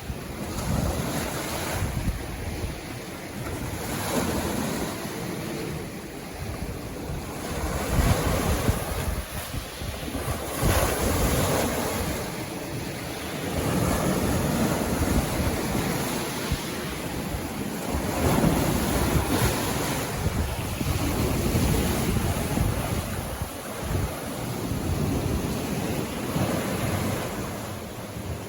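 Sea waves breaking and washing on the shore, rising and falling in surges every few seconds.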